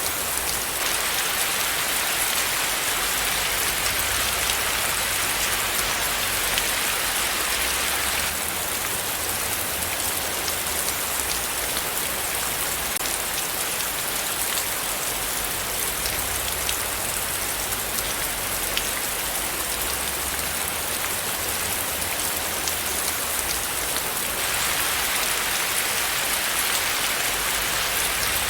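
Steady rain falling, many fine drops hitting a surface in an even, dense patter.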